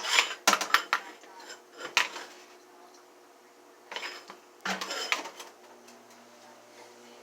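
Kitchen clatter of dishes and utensils: bursts of clinks and knocks in the first second, once about two seconds in, and again around four to five seconds in.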